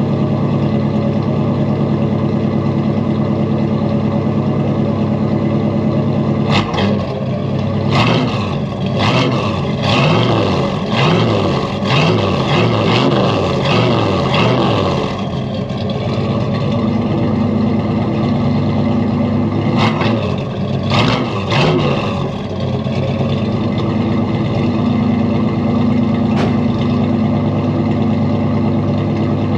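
Ford 460 cubic-inch (7.5 L) V8 warming up after a cold start. It idles steadily, then about a third of the way in the throttle is worked and the engine note rises and falls unevenly for several seconds. It is blipped again briefly about two-thirds of the way through, then settles back to a steady idle.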